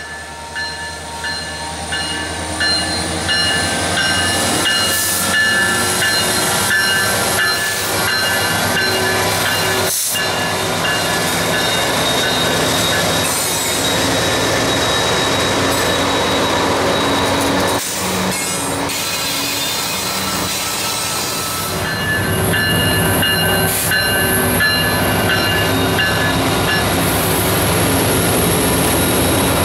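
Freight train rolling past, its wheels squealing against the rails in steady high-pitched tones over the continuous rumble and clatter of the cars.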